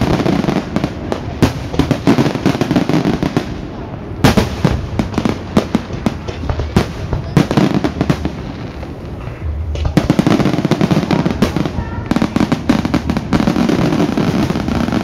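Fireworks display: a dense run of bangs and crackling bursts, thinning briefly about halfway through, then building again.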